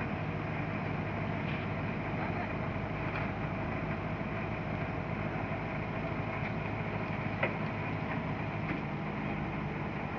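An engine drones steadily, with a few faint clicks and one sharp click about seven seconds in.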